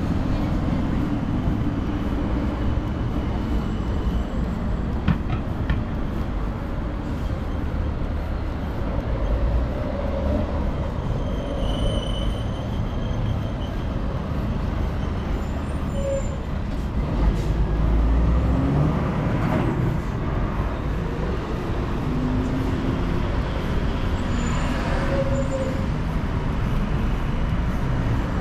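Busy city road traffic: engines and tyres of passing cars and heavier vehicles such as buses make a steady rumble. A louder vehicle passes about 17 seconds in, and there are a few brief high squeals.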